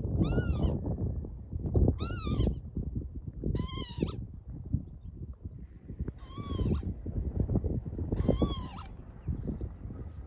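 A bird flying overhead gives five calls about two seconds apart, each short, rising then falling in pitch. Wind buffets the microphone with a steady low rumble throughout.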